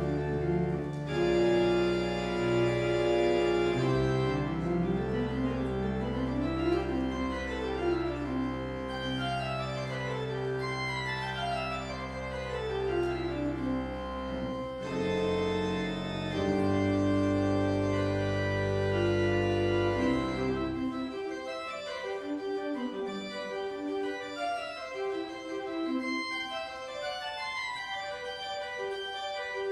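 Church organ playing: deep held bass notes under running lines that climb and fall in quick scales. The bass drops out about two-thirds of the way through, leaving the higher voices moving on alone.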